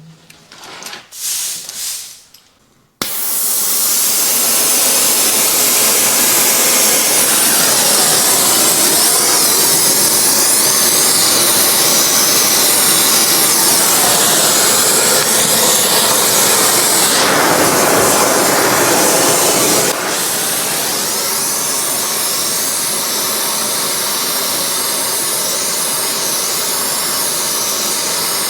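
A gas blowtorch flame starts suddenly about three seconds in and then hisses loudly and steadily, heating a winch bearing housing to expand it so a seized grub screw can be freed. Its sound shifts for a few seconds past the middle and settles slightly quieter. A few light knocks come before it.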